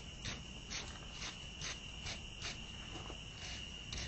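Wire brush scrubbing the forged steel of a fire poker, scratchy strokes at about two a second, with a steady high-pitched tone underneath.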